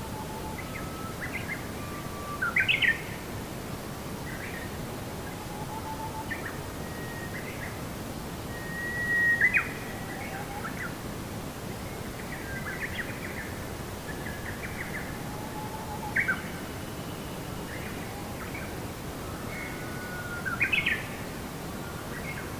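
Birds chirping and whistling in short, scattered calls over a steady rushing noise, with a few louder calls spaced through it.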